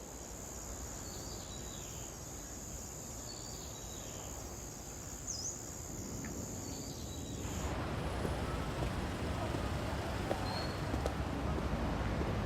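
A steady high-pitched insect drone with a few short bird chirps. It cuts off suddenly about eight seconds in and gives way to a busier background noise with scattered small clicks.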